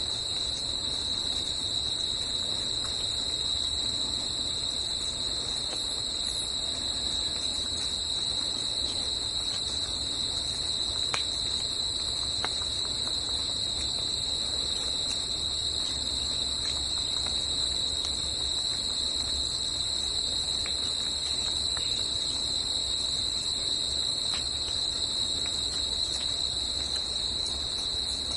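Insects in a steady, unbroken high-pitched chorus, one even tone with a fainter higher overtone, over a faint low rumble.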